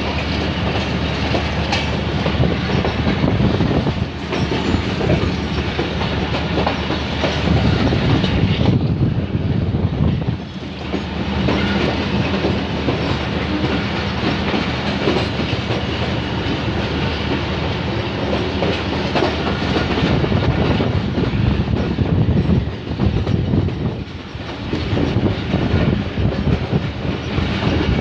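Passenger train running at speed, heard from the open doorway of its coach: a steady rumble and rush of wheels on rail with clickety-clack over the rail joints. The noise dips briefly twice, about ten seconds in and again a few seconds before the end.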